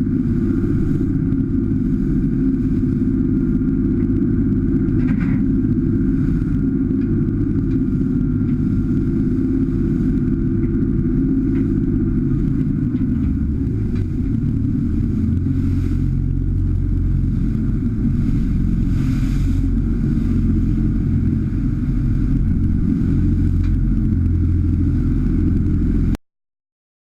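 Steady low rumble of a boat's engine running under way, mixed with wind on the microphone; it cuts off suddenly near the end.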